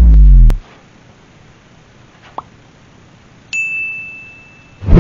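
A deep boom falling in pitch that cuts off about half a second in, a faint tick near the middle, then a single high ding that rings and fades over more than a second.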